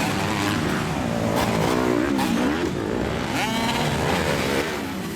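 Several 250 motocross bikes racing together, their engines revving up and down over one another. About three and a half seconds in, one bike revs up sharply.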